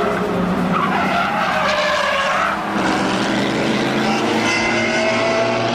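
Car tyres squealing as a car skids, with its engine running underneath; the squeal glides up and down in pitch.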